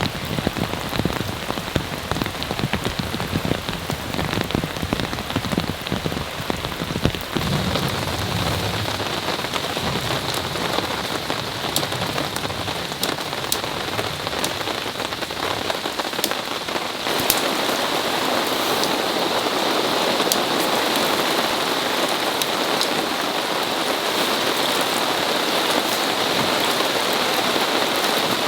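Heavy rain pattering on a tarp, with close drops landing as dull thuds; about two-thirds of the way through it switches suddenly to a louder, even downpour hiss.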